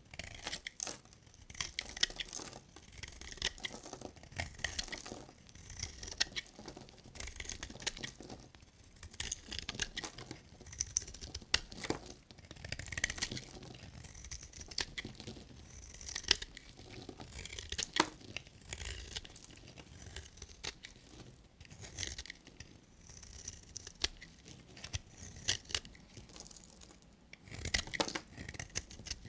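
Knife cutting through dry bar soap: a continuous run of crisp, crackly scraping with many small sharp cracks as the blade pushes through.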